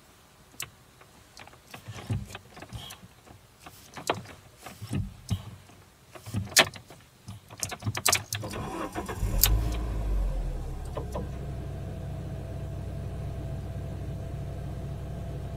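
Several sharp clicks and knocks, then about nine seconds in the Alfa Romeo 147's 2.0 Twin Spark four-cylinder engine cranks and catches, settling into a steady idle.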